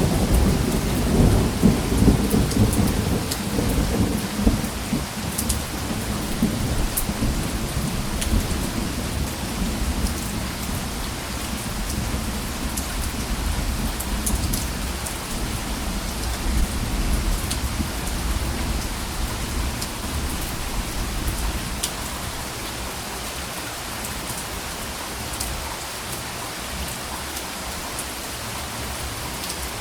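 Steady rain falling, with a low rumble of thunder that is loudest at the start and dies away over the first several seconds; scattered sharper drop ticks over the rain.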